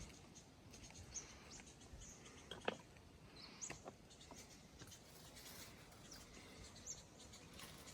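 Near silence, with two faint, brief rising bird chirps and a few soft clicks.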